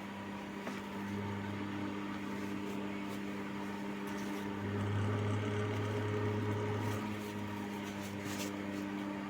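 Electric household fan running: a steady motor hum over the rush of air from its blades. The hum grows louder for about two seconds midway, then settles back.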